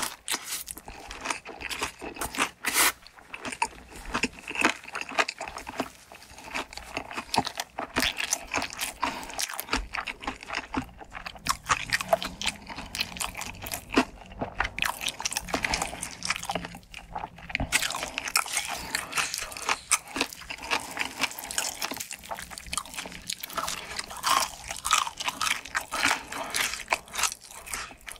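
Close-miked eating sounds: crunchy bites and chewing, a dense, steady run of crisp crackles.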